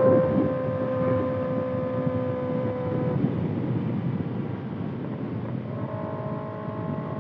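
Kawasaki ZX-6R 636 cc inline-four with a Voodoo Racing slip-on exhaust, droning at steady cruising revs under wind rush on the microphone. The drone fades about three seconds in and comes back at a slightly different pitch about six seconds in.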